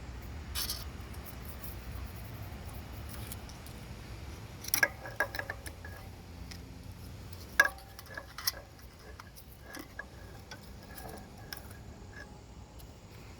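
Metal hand tools clinking and tapping against engine metal as an ignition coil is fitted and tightened onto a small engine. The clicks come scattered, each with a brief metallic ring: a cluster about five seconds in, and the sharpest about seven and a half seconds in.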